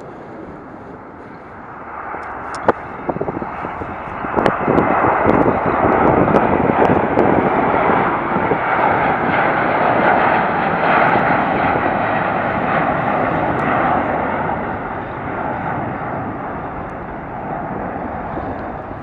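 Lockheed L-1011 TriStar's three Rolls-Royce RB211 turbofan engines at takeoff power as the jet departs. The jet noise builds up, holds loudest through the middle and slowly fades near the end.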